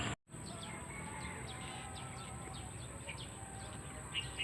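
Small birds chirping: a run of short, quick falling chirps, with two louder chirps near the end, over a steady high-pitched insect drone.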